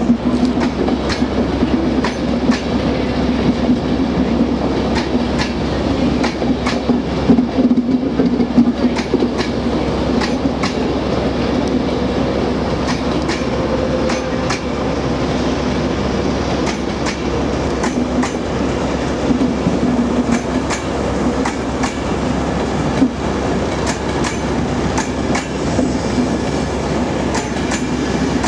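InterCity 225 train of Mark 4 coaches, worked by a Class 91 electric locomotive, rolling slowly past, with a steady rumble and hum. Its wheels make irregular clicks and clacks over rail joints and pointwork.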